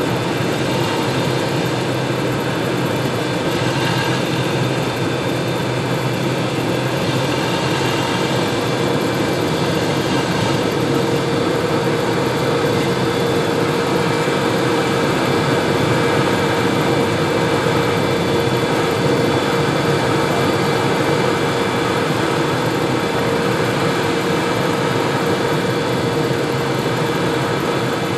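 Cessna 172RG's four-cylinder Lycoming engine and propeller running steadily, heard inside the cabin as a continuous drone mixed with airflow noise.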